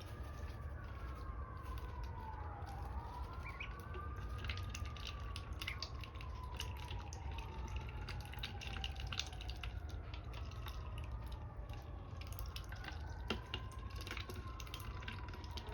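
A siren wailing slowly up and down, with irregular sharp clicks and a steady low hum underneath.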